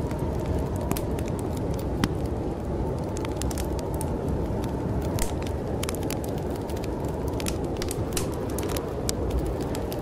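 Wood fire crackling in a fireplace, with irregular sharp pops and snaps, over a steady low rush of storm wind.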